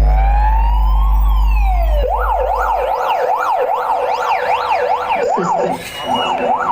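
A siren sound effect played loudly through a large sound system. First comes a slow rising glide over a deep bass drone. About two seconds in the bass drops out and a fast siren sweeps up and down, two or three times a second.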